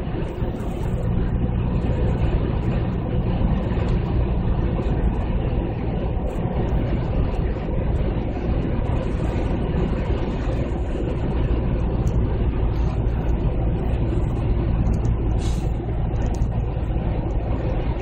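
V8 engine of a 2008 Chevy Tahoe running steadily through an aftermarket Magnaflow muffler, with a deep, low exhaust note that picks up slightly about a second in and then holds level.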